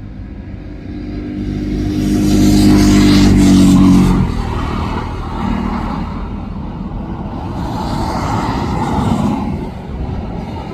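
A motor vehicle passes close by. Its engine hum builds, peaks with a slight drop in pitch, and cuts away about four seconds in, leaving a steady rumble of traffic and engine noise.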